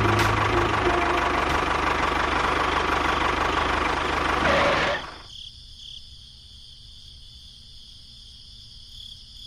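A small motor running with a steady whir that cuts off abruptly about five seconds in. After it, crickets chirp steadily in the quiet.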